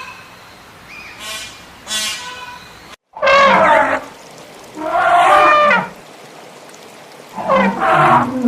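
Animal calls: two short high yelps, then three loud drawn-out calls that waver in pitch, the last sliding down low at the end.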